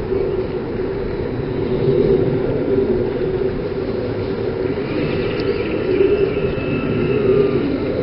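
A steady motor drone with a hum, joined about five seconds in by faint higher whines.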